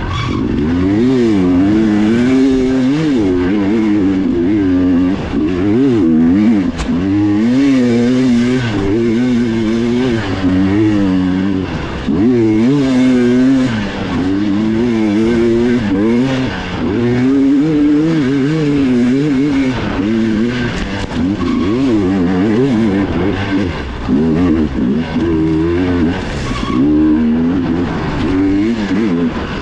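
Dirt bike engine under hard riding, rising and falling in pitch every second or so as the throttle is opened and closed and the gears change.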